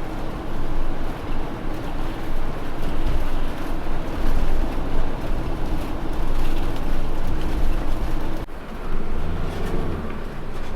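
Motorhome driving on the road, heard from inside the cab: steady engine and tyre noise, with a sudden break about eight and a half seconds in.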